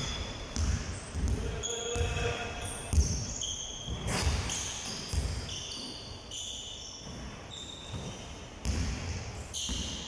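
Basketballs bouncing on a hard court floor, with irregular low thuds, mixed with short high squeaks like sneakers on the floor.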